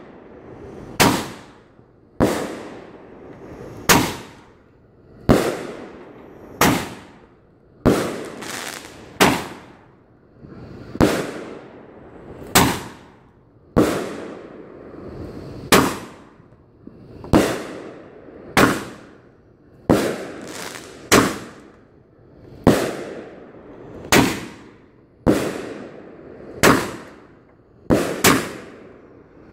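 Aerial fireworks going off in a steady series: a sharp bang about every second and a half, each trailing away in an echo.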